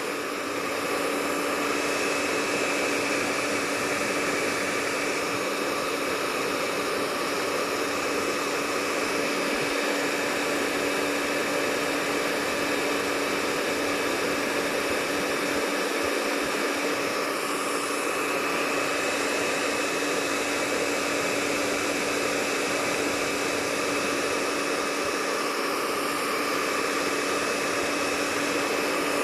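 Hair dryer running steadily: a constant airy whoosh with a steady hum that does not change.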